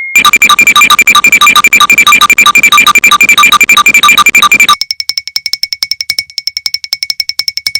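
Electronic synthesizer sound effect: a rapid, even pulsing buzz over a steady high tone. It drops to a quieter pulsing about three quarters of the way through.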